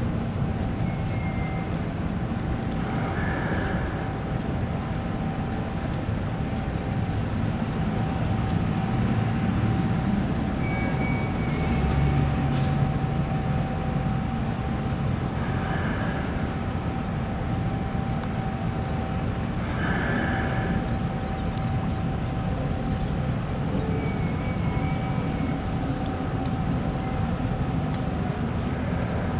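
Steady low machinery rumble with a thin constant whine running over it, and a few brief higher chirps.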